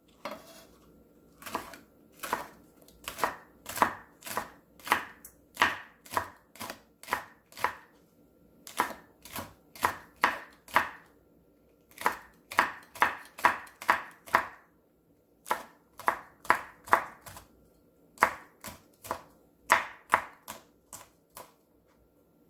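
Kitchen knife chopping on a cutting board, slicing red chili: even strokes a little over two a second, in four runs with short pauses between them.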